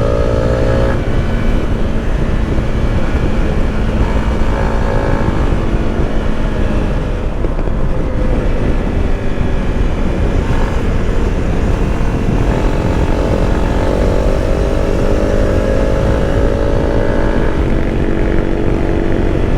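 Motorcycle engine running at road speed, its note climbing slowly as it pulls, over heavy wind rush on the microphone. The engine note breaks off abruptly about a second in and rises again in the second half.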